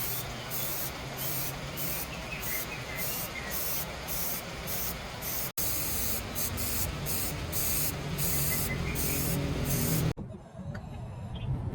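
Pressurised spray hissing, pulsing evenly over a low hum, with a brief break a little past halfway. It stops abruptly about ten seconds in.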